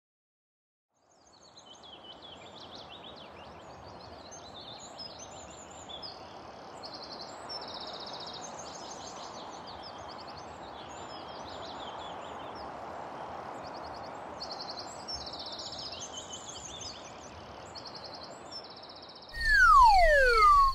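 Outdoor ambience: many birds chirping over a steady background hiss. Near the end a much louder sliding whistle falls in pitch over a low hum.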